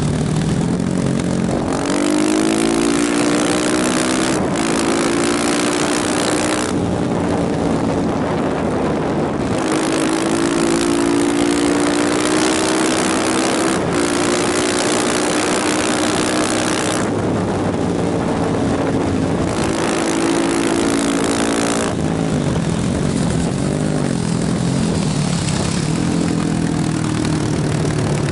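Motorcycle engine running under way, its pitch climbing and dropping as the rider accelerates and changes gear. Long stretches of rushing wind noise swell and fade over it.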